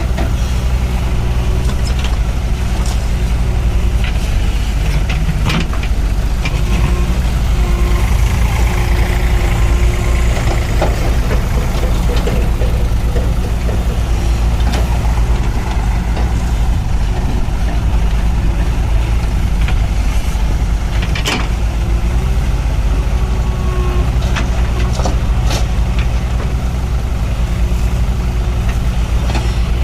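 Mahindra 585 DI tractor's four-cylinder diesel engine running steadily, with a few sharp knocks scattered through.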